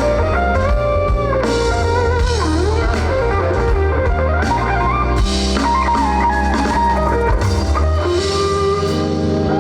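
Live rock band playing an instrumental passage: a guitar lead with bends and slides over bass and drum kit.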